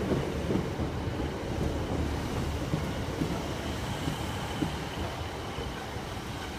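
Passenger train running past on the rails, a steady low rumble that eases slightly as it goes, with wind buffeting the microphone.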